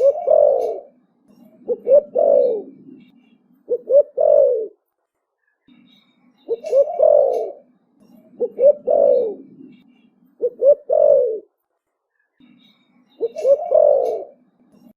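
Young spotted dove cooing in phrases about two seconds apart, grouped in threes with a short pause between groups. Each phrase opens with a low rumble, then a couple of quick notes and a longer falling coo.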